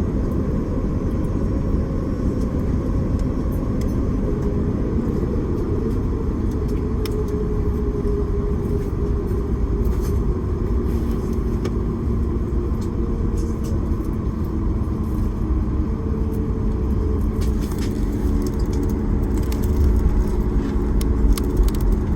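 Steady low rumble and hum inside a jet airliner's cabin, with scattered light clicks and rattles.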